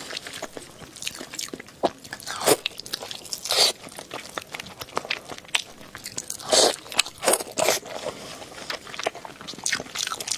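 A person eating close to the microphone: irregular crunchy bites and chewing, with several louder crunches spread through the stretch.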